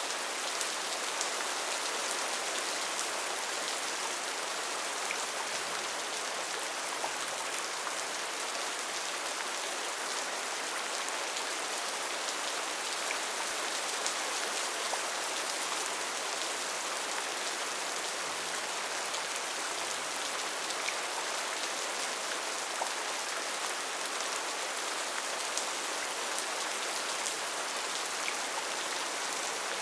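Steady rain falling: an even hiss of rainfall with fine, scattered drop ticks, unchanging throughout.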